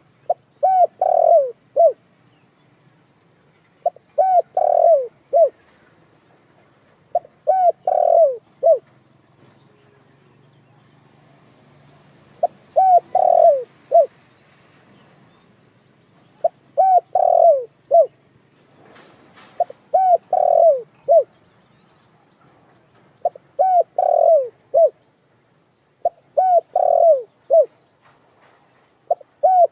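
Spotted dove cooing: a short phrase of a few low coo notes, repeated about every three to four seconds.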